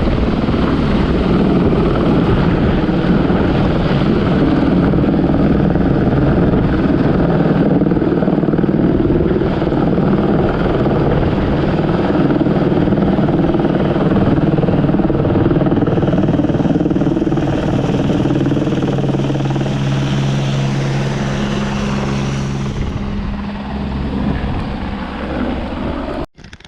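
Helicopter running at close range, the steady beat of the rotor and turbine whine, at take-off. The sound weakens over the last few seconds as it moves off, then cuts off abruptly.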